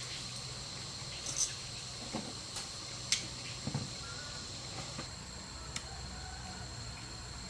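Steady high-pitched insect drone over a low background hum, with a scattered handful of light clicks and taps through the middle.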